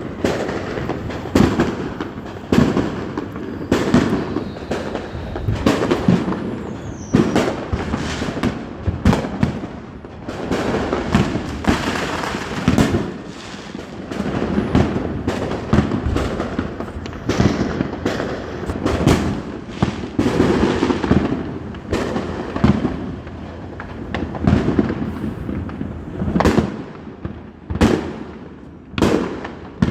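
Fireworks going off continuously, with sharp bangs one or two a second throughout.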